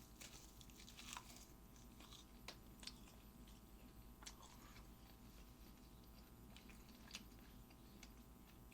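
Faint chewing and small mouth clicks of someone eating mackerel sashimi, scattered through the stretch, over a faint steady hum.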